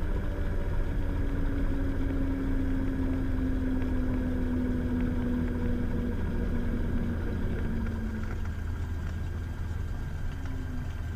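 Cessna Skylane's piston engine and propeller droning in the cockpit, a steady low hum under a tone that sinks slowly in pitch and fades out about eight seconds in as the engine slows.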